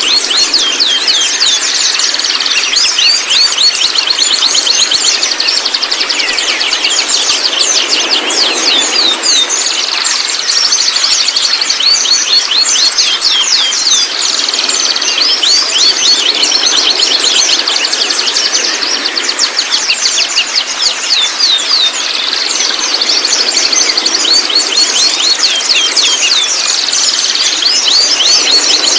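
White-rumped shama song: a dense, continuous run of rapid sweeping chattering notes. A steady high tone runs underneath.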